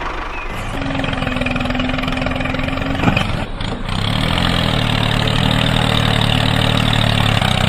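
A motor running with an engine-like sound: first a steady hum, then a sharp click about three seconds in, and from about four seconds a steady, lower-pitched drone like an idling engine.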